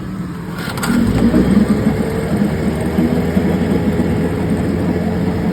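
1976 Johnson 9.9 hp two-stroke outboard motor running. About a second in it picks up from a very low idle to a faster, steady run.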